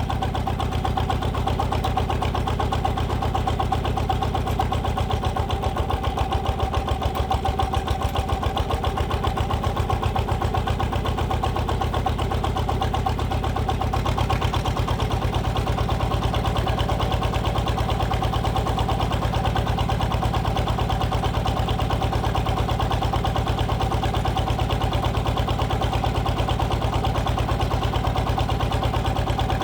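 Single-cylinder diesel engine of a walk-behind power tiller running steadily with a fast, even chug, driving a homemade hydraulic log splitter.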